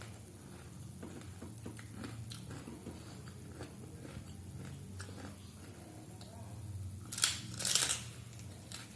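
Close-miked eating sounds: soft chewing through most of it, then two loud crunching bites about seven seconds in.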